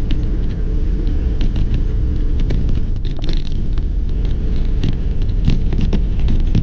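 Wind buffeting the microphone: a loud, steady low rumble with many short rattling clicks scattered through it.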